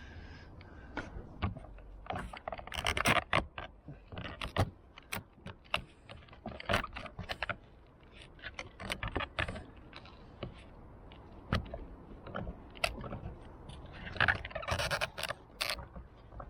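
Plastic guttering clicking, knocking and scraping as a new gutter union is handled and worked into place against the gutter, in irregular bursts with a busier stretch near the end.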